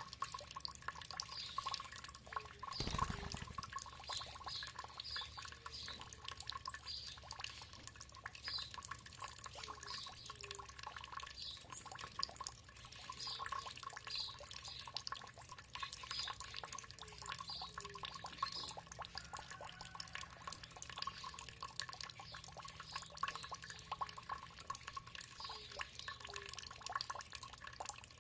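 Water dripping and trickling steadily, with many small drops plinking into water. A low thump about three seconds in.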